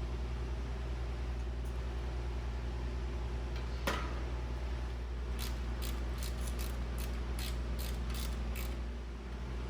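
Steady low hum of the shop, with a single sharp metallic click about four seconds in, then a run of about ten light clicks, roughly three a second, from hand tools at work on a motorcycle assembly.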